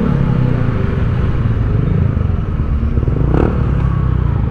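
Kawasaki Ninja ZX-4RR's inline-four engine running steadily through its stock muffler while being ridden, a continuous low drone with only slight changes in pitch.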